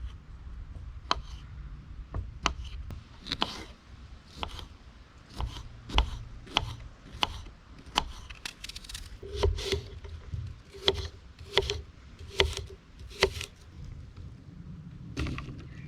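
Knife chopping fruit into small pieces: irregular sharp cutting knocks, one or two a second, the loudest run in the middle.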